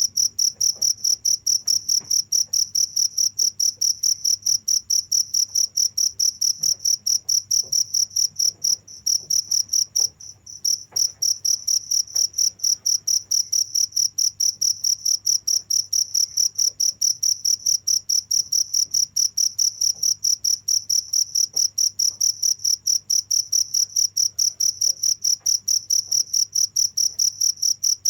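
A cricket chirping in a steady, even rhythm of about three chirps a second, all on one high pitch. The chirping breaks off briefly twice about ten seconds in.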